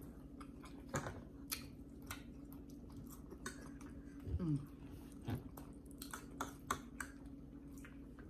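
Close-miked chewing of people eating, with many small wet mouth clicks and smacks. Halfway through comes a short vocal sound that slides down in pitch, and a faint steady hum runs underneath.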